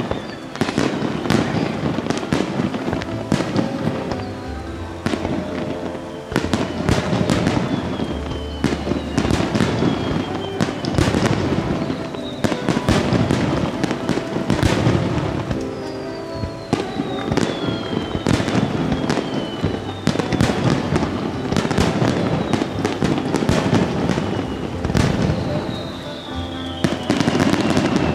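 Fireworks display in a Starliner sequence: a dense, continuous barrage of shells bursting in quick succession, with several falling whistles.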